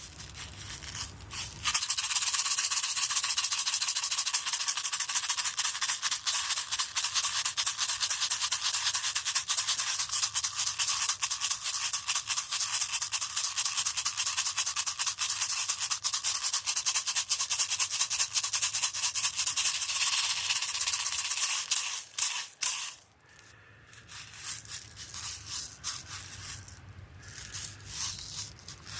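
Hand rattle shaken rapidly and steadily, a dense stream of fine clicks starting about two seconds in and stopping after about twenty seconds; then a few softer, scattered shakes.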